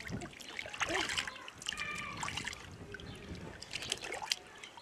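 Water trickling and dripping in a small plastic tub as a wet puppy is washed by hand, with light splashes.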